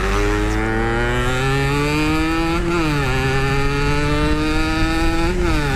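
Yamaha RX-King two-stroke single-cylinder engine pulling under acceleration, its pitch climbing steadily and dropping sharply twice, about three seconds in and near the end, as the rider shifts up a gear.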